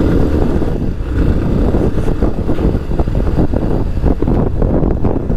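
Motorcycle running as it is ridden, with heavy wind buffeting on the microphone.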